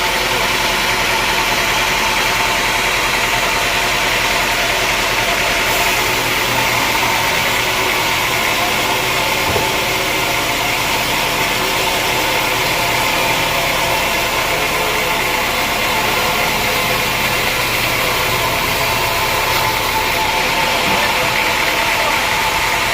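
Sawmill machinery running steadily, a constant motor hum with a dense, even noise over it.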